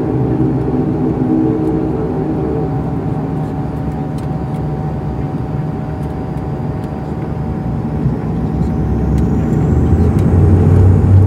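Cabin sound of a Dash 8's turboprop engines and propellers: a steady drone with a mid-pitched whine over a deep hum. From about nine seconds in, a high whine glides upward and a deep propeller hum swells as the engines power up, and the sound gets louder.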